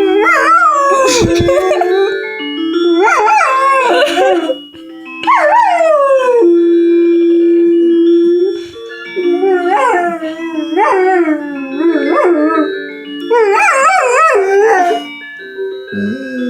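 A dog howling in several long, wavering bouts along with a phone's alarm tone, whose melody of steady notes plays underneath. One howl slides down in pitch near the middle.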